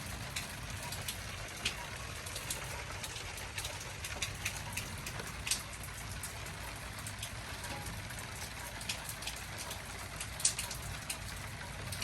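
Steady rain falling, with individual drops ticking sharply and irregularly close by, two louder drops standing out about five and a half and ten and a half seconds in.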